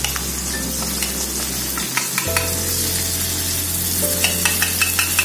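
Shallots, chillies and tomato sizzling steadily in hot oil in a wok, with a few light clicks of the metal spatula about two seconds in and a quick run of clicks near the end as tauco paste is scooped from the bottle into the pan.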